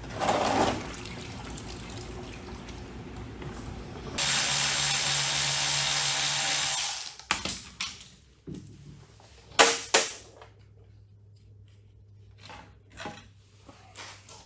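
A power tool runs steadily for about three seconds, with a low hum under the noise, during mechanical disassembly work. Before and after it come sharp metallic knocks and clinks of tools and parts being handled.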